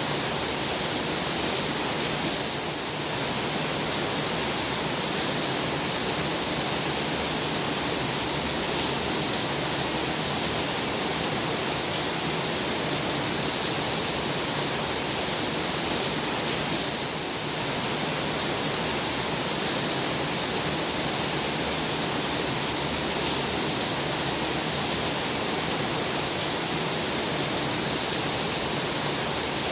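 Steady heavy rain falling, a dense even hiss with no breaks, dipping slightly twice.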